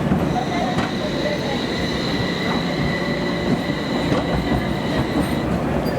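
Toyama Chiho Railway city tram running along street track with a low rumble, its wheels giving a steady high squeal that stops near the end.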